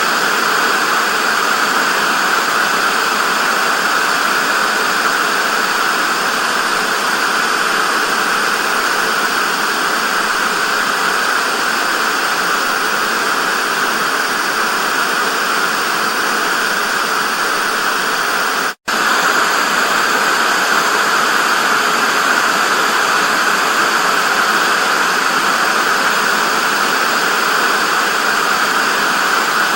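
Analogue TV static: a steady, loud hiss of white noise, strongest in the upper-middle range. It cuts out for an instant about two-thirds of the way through, then resumes unchanged.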